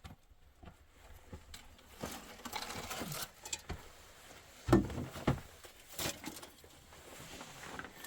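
Scattered rustling and light knocks, as of things being handled, with a louder thump about five seconds in and a second one just after.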